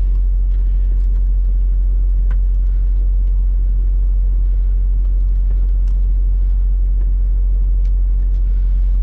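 Semi-truck's engine and road noise, a steady low drone.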